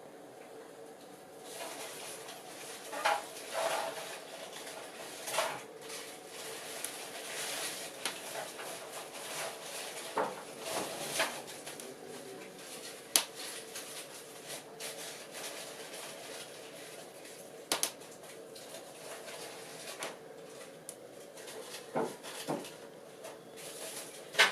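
Wood fire burning in an old fireplace: a hiss that sets in about a second and a half in, with irregular crackles and a few sharp pops.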